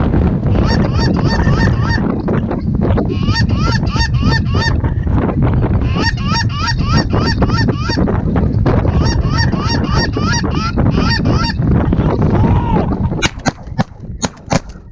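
Geese calling, a rapid run of short high honks that keeps breaking off and starting again, over heavy wind buffeting the microphone. A few sharp cracks come near the end.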